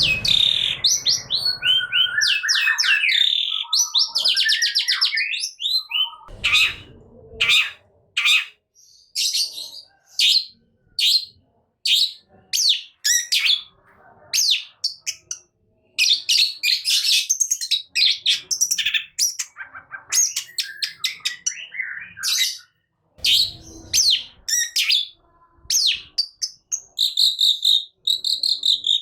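Caged long-tailed shrike singing hard: a fast, varied stream of short harsh chirps and rapid-fire notes, ending in a held high whistle.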